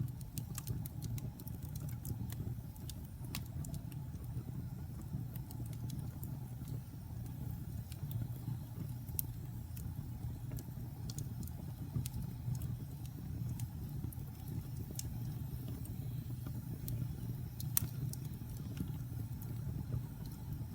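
Fire burning in a fireplace: a steady low rumble with scattered sharp crackles and pops, one louder pop near the end.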